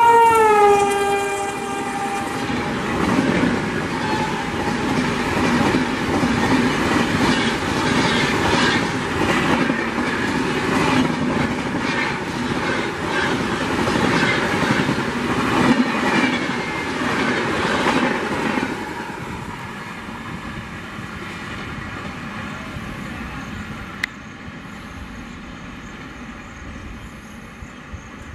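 WAP-7 electric locomotive's horn ending with its pitch dropping as the engine passes, then the coaches rushing past at speed with a rapid clickety-clack of wheels over rail joints. After about 19 seconds the sound falls to a quieter, steady rumble.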